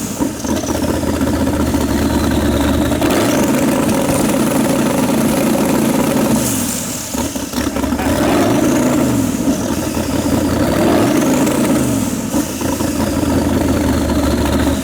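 Custom car's rear-mounted engine, a front-engine motor moved to the back, revving up and down several times, one longer rev then shorter blips. It is being revved to make its exhaust igniters shoot flames.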